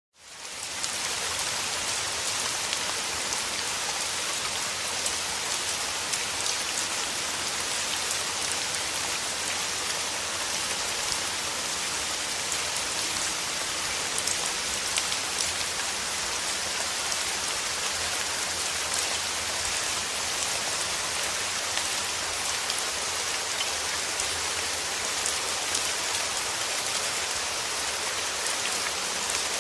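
Steady rain falling, a dense even hiss with fine pattering drops, fading in quickly from silence at the start.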